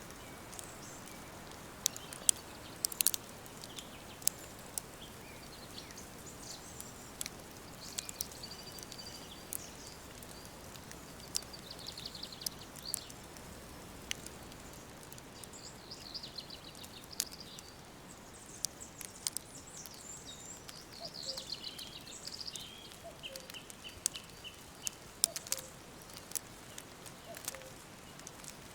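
Songbirds singing and chirping over a steady faint hiss, including a short trill of evenly repeated notes near the end, with scattered sharp crackling clicks throughout.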